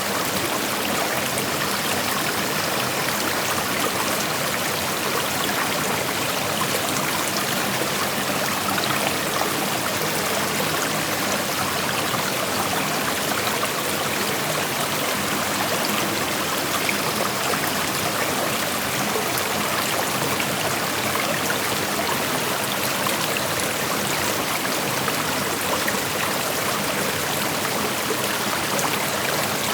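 Creek water rushing and babbling over rocks, a steady, even rush with no pauses.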